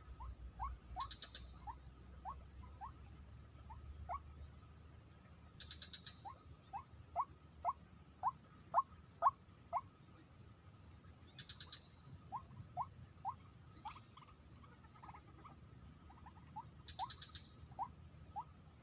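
Bird calls: series of short, clipped pitched notes, about two to three a second, coming in bouts, with a brief buzzy trill every few seconds.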